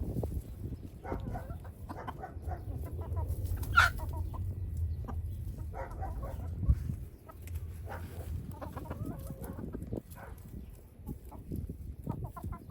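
Chickens clucking in short, repeated calls, with one sharper call about four seconds in. A steady low rumble of wind runs underneath.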